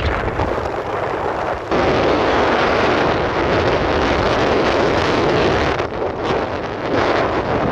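Loud, steady rushing and rumbling of wind buffeting the microphone, getting louder about two seconds in and dipping briefly near the end.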